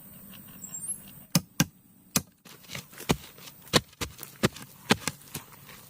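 A series of sharp knocks or strikes, about eight of them at irregular intervals, starting about a second and a half in.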